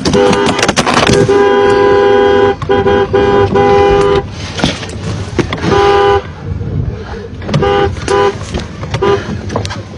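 Car horn honking in a series of blasts: two long ones of more than a second each, then several shorter toots, with a few knocks in the first second.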